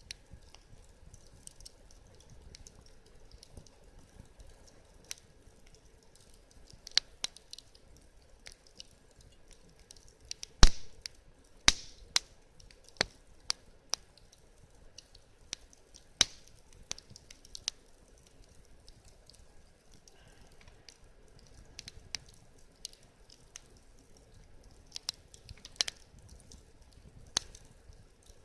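Wood fire crackling: irregular sharp pops and snaps over a faint steady hiss, with the loudest snap about ten seconds in.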